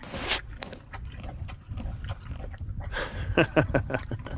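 A horse close by: a short, noisy blow of breath at the start, then a brief low-pitched sound about three seconds in.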